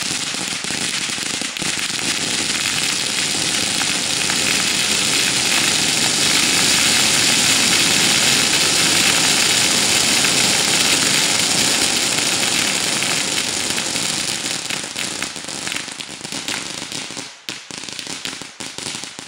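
A long run of firecracker strips going off in a dense, continuous rapid-fire crackle, loudest in the middle and thinning out into scattered separate pops near the end.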